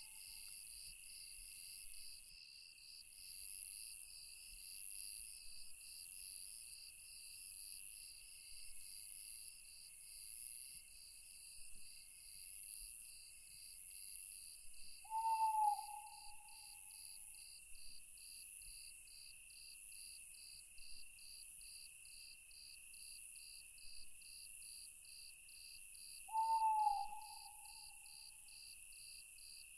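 Night forest ambience: insects chirping steadily in layers, one of them a high, evenly pulsing chirp. An owl hoots twice, single short hoots that drop slightly in pitch, about eleven seconds apart, louder than the insects.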